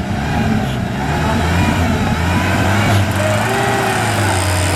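An off-road 4x4's engine running steadily, with a strong low drone.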